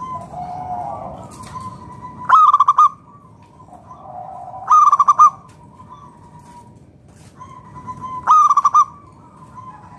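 Zebra dove (perkutut) singing its cooing song three times, roughly every three seconds. Each phrase starts with a soft, lower coo and ends in a loud, rapid trilled coo.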